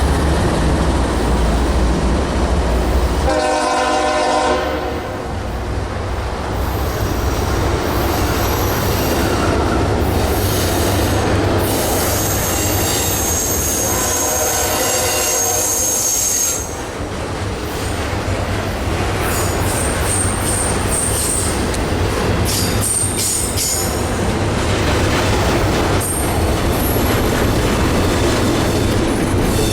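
Diesel freight train running by with a steady low rumble. The locomotive horn sounds twice: a short blast about three seconds in and a longer one around fourteen seconds. Thin high wheel squeals come and go in the second half.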